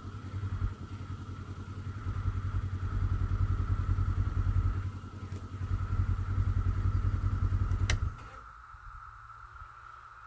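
Side-by-side UTV engine running, with a steady high drone of a 17-year cicada chorus over it. About eight seconds in there is a click and the engine shuts off, leaving the cicada chorus on its own.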